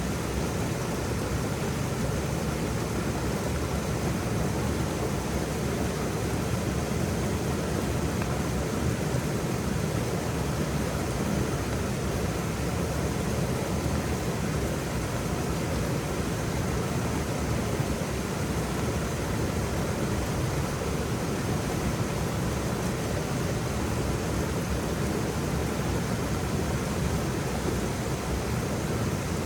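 Waterfall: a steady, even rush of falling water, fullest in the low end.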